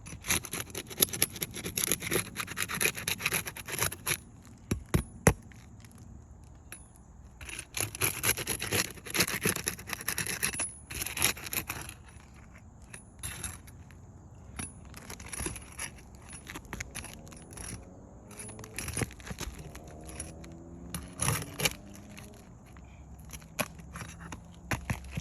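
Asphalt 3-tab roof shingles being pried up and their nails worked loose: bouts of scraping and crackling of the shingle against the roof, with sharp clicks, and a few short squeaks about two-thirds of the way through.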